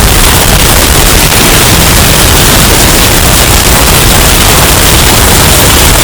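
Hurricane storm sound effect: a dense, steady rush of wind noise, heavily bass-boosted and overdriven into loud, clipping distortion.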